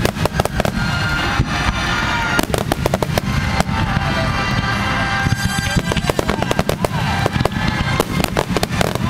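A fireworks display in full barrage: aerial shells launching and bursting in quick succession, a dense run of sharp bangs and crackles over deep, continuous booming.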